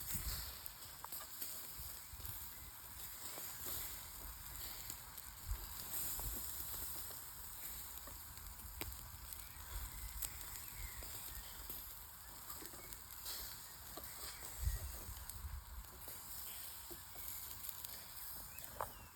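Food sizzling on a barbecue grill: a steady high hiss with scattered faint crackles and a few low thumps.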